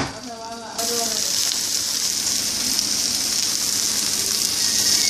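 Scrambled eggs and vegetables frying in a pan, a steady sizzle that starts about a second in after a brief quieter moment.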